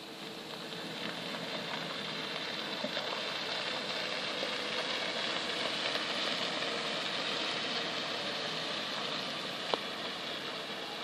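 1997 Ford F-150 pickup's engine idling steadily, heard as an even hiss-like running noise that grows a little louder over the first two seconds. A single sharp click near the end.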